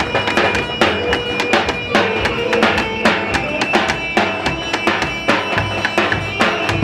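Halay folk dance music: a steady, driving drum beat under a held, reedy melody line.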